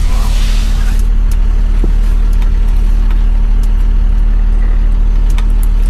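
Jeep Wrangler's engine idling: a steady low hum, with a few faint clicks.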